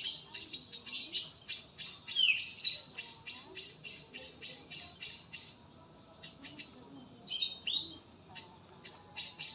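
Birds calling: a fast, even run of sharp high chirps, about four a second, with a couple of short falling whistles among them and brief pauses around the middle and near the end.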